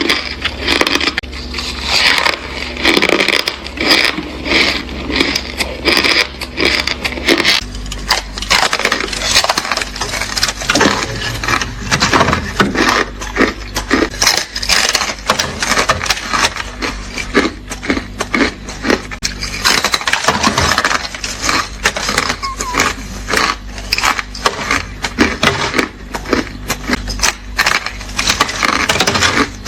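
Ice being bitten and chewed close to the microphone: a continuous stream of sharp, crisp crunches and cracks.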